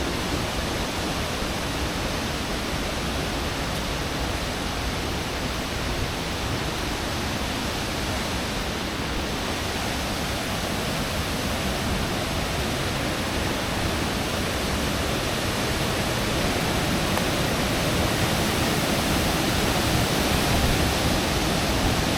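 Steady rush of fast-flowing, turbulent water from a waterfall and river, growing a little louder in the second half.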